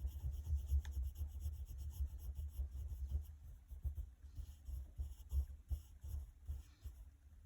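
Drawing strokes on paper: a pencil-type tool scratching and rubbing in irregular strokes while a rectangle is sketched.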